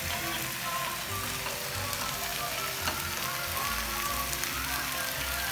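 Marinated chicken pieces sizzling as they fry in hot oil in a steel pan, a steady dense crackle. Soft background music plays underneath.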